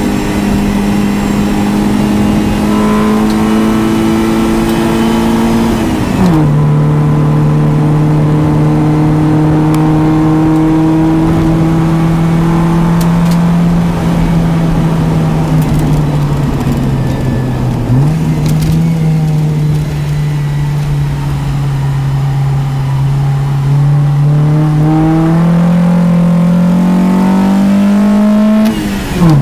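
Honda Civic's naturally aspirated, low-compression D16 SOHC four-cylinder engine heard from inside the cabin, driven hard around a track. The revs climb and drop at a gear change about six seconds in, sag and jump back up around eighteen seconds, then climb steadily again until another sharp drop near the end.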